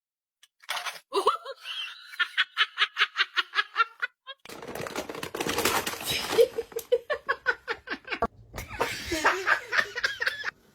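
Laughter in quick rhythmic bursts, about four a second, stopping briefly near the fourth second and then going on more raggedly over a hiss.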